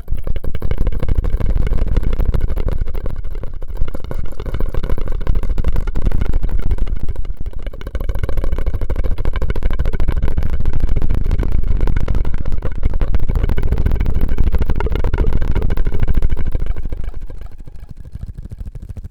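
Close-miked ASMR straw sounds: a dense, crackling rumble that carries on steadily and fades out near the end.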